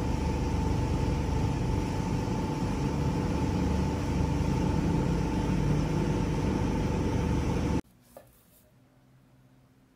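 A machine running steadily, a constant whirring noise with a steady hum, cut off abruptly about eight seconds in.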